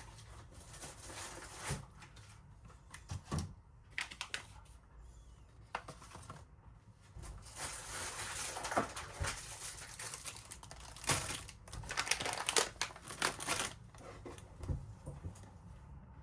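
Handling noise: light clicks and knocks throughout, with two longer spells of crinkling and rustling, like packaging being handled, about halfway through and again near the end.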